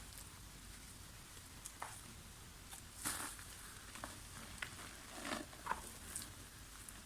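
Soft dried mud chunks being crumbled: quiet, scattered crunches and crackles at an uneven pace. The biggest crunches come about three seconds in and again between five and six seconds.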